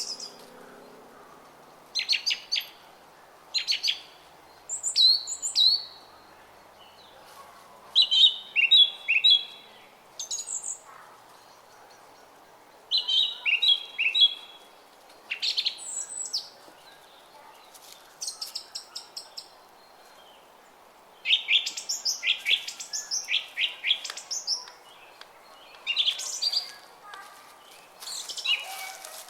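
Small songbirds chirping and twittering in quick clusters of high notes every second or two, over the faint steady babble of a small stream.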